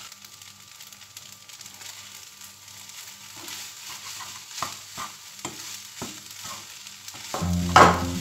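Fried rice with sausage sizzling in a nonstick frying pan, stirred and tossed with a utensil that scrapes and taps against the pan at irregular intervals. Music comes in with a loud hit near the end.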